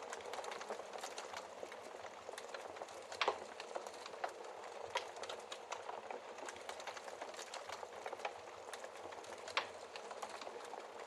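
Wood fire crackling in a fireplace: a steady hiss with frequent sharp pops and snaps. Two louder pops come about three seconds in and near the end.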